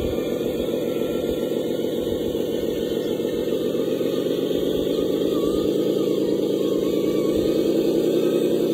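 Radio-controlled heavy construction vehicle running with a steady motor or engine drone. Its pitch and loudness rise slightly near the end.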